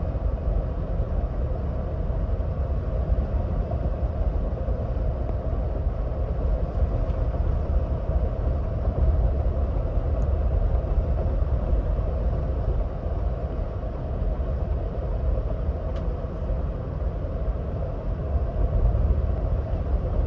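2026 Ford Bronco Badlands cruising at highway speed: steady tyre and road noise over a deep, even rumble, with no change in pace.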